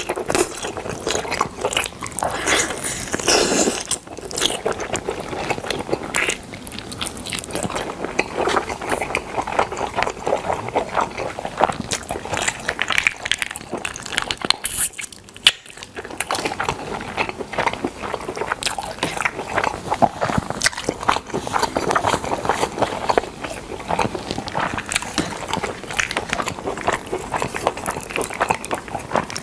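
Close-miked mouth sounds of a person biting and chewing smoked chicken: a dense run of small wet clicks and smacks, easing off briefly about halfway through.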